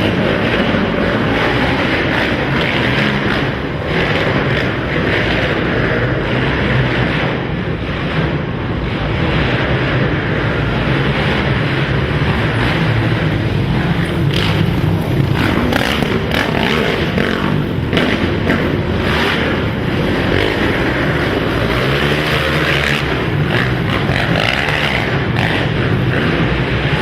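Racing quad ATV engines running hard and revving, loud and continuous, in an indoor dirt arena.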